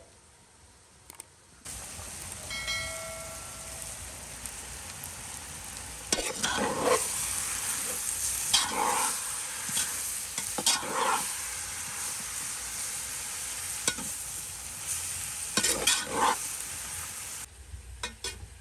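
Food sizzling in a frying pan, with several scraping strokes as it is stirred. The sizzle starts suddenly about two seconds in and cuts off suddenly near the end.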